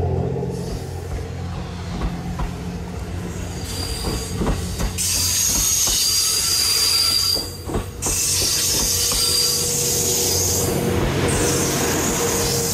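Kiha 87 series diesel sleeper railcar train rolling slowly past along a platform, its diesel engines droning low. Wheels click over rail joints, and a high-pitched wheel squeal sets in about four seconds in and fades near the end.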